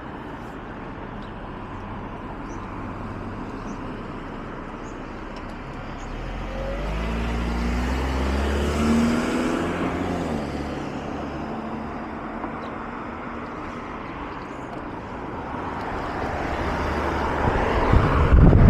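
A car drives past, its engine sound swelling about a third of the way in and fading away, over a steady hiss of road traffic. Near the end, wind buffets the microphone.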